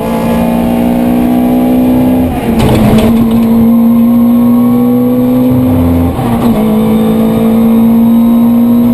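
Corsa 1600 rally car's 1.6-litre engine running hard under load, heard from inside the cabin. The engine note climbs slowly, with brief dips about two and a half seconds in and again about six seconds in.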